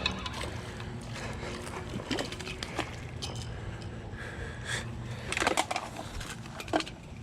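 Water splashing as a hooked bass is brought to the bank and landed, with scattered short splashes and handling clicks, the biggest about five seconds in, over a steady low hum.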